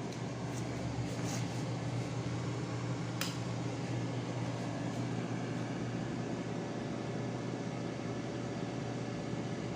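Air fryer running: its fan blowing with a steady hum, with a few light clicks in the first seconds, the sharpest about three seconds in.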